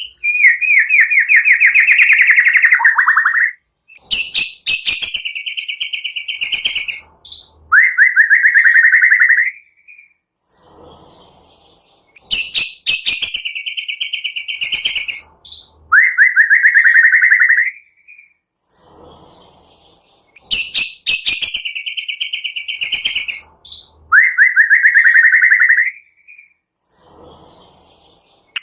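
A looped recording of small songbird calls, the cililin and prenjak calls used as bait to make a white-rumped shama sing. A fast buzzy trill alternates with harsher, higher rattling trills broken by sharp clicks, and the sequence repeats about every eight seconds.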